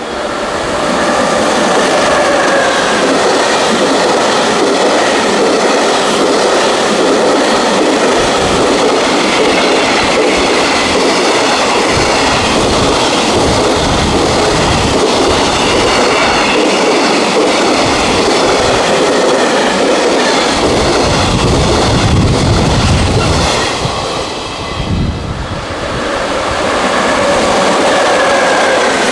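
Freight train running past on the rails, its wheels and wagons making a loud continuous rush with faint steady whining tones. The sound dips briefly about 24 seconds in and then carries on.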